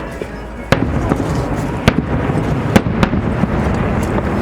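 Aerial fireworks going off: four sharp bangs, the first about a second in, over a continuous low rumble of bursts.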